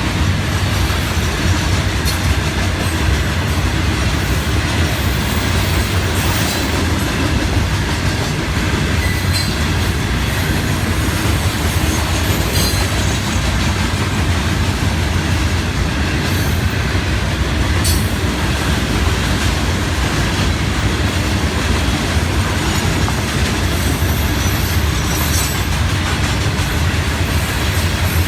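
A long freight train of loaded rock cars rolling steadily past, a continuous heavy rumble with wheel clatter and a few brief faint squeaks.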